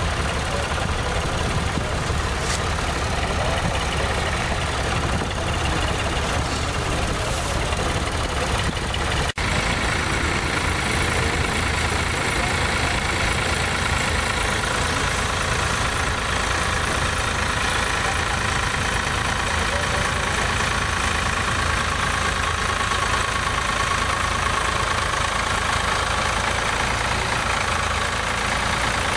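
Tractor engine running steadily, with a momentary dropout about nine seconds in.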